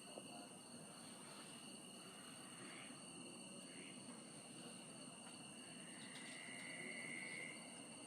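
Near silence: faint steady high-pitched outdoor drone, with a faint higher trill for about a second and a half near the end.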